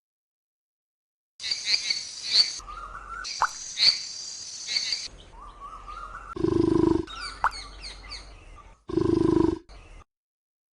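Rainforest ambience sound effect: birds chirping and calling over a steady layer of insect noise, with two short, loud, low-pitched sounds past the middle and near the end.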